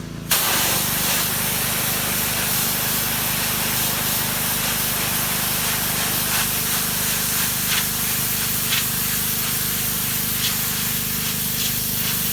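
Pressure washer spraying: the water jet's steady loud hiss switches on suddenly just after the start, over a steady low hum from the machine. It is blasting old paint off cedar siding down toward bare wood.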